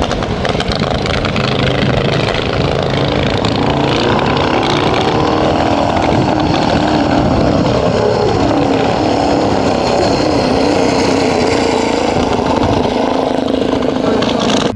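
Several motorcycle engines running hard in a race, their pitch rising and falling as the bikes pass.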